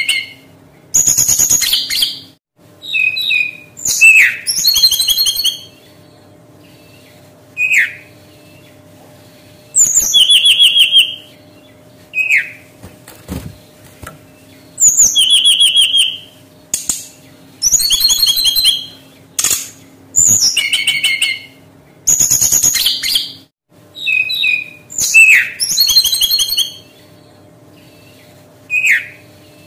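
Brown-chested jungle flycatcher singing: short phrases of clear whistled notes and rapid trills, each about a second long, repeated with pauses of one to two seconds between them.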